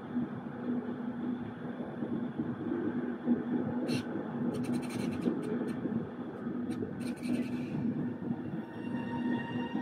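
Avanti West Coast Pendolino electric train rolling past, a steady rumble of wheels on rail with a low hum. Several sharp clicks and scrapes come in the middle, and a high wheel squeal starts rising near the end.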